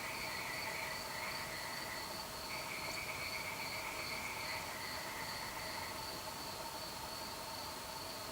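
Night chorus of insects and frogs: a continuous high steady trill over lower steady calling, with a second trill in between that stops about six seconds in.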